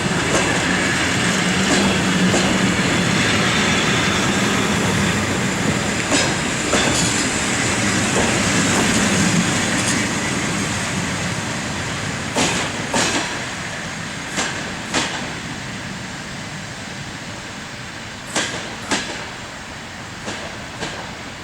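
Passenger coaches of a departing train rolling over rail joints: the clicks come in pairs as each bogie's wheelsets cross a joint. The running noise slowly fades as the train pulls away.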